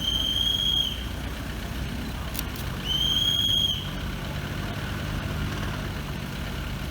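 Two high-pitched whistle blasts, each under a second and about three seconds apart, signalling the narrow-gauge sugar-railway train's departure. A low, steady locomotive engine sound follows as the train gets under way.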